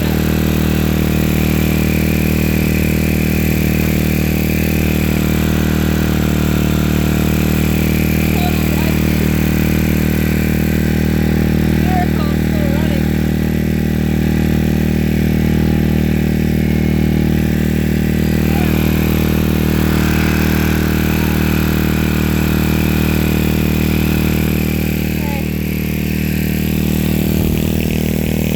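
Portable generator's engine running loudly at a steady, constant speed.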